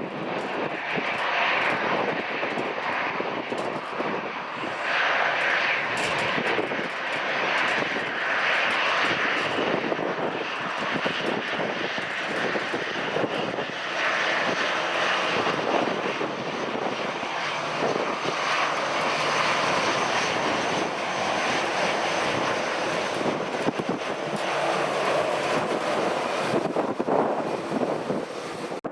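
Airliner's engines running at high power, a loud steady roar with a thin high whine near the end, typical of an aircraft taking off.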